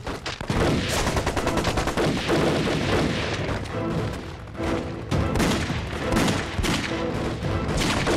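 Battle gunfire, many rapid overlapping shots, with background music under it; the music's held notes grow clearer from about halfway.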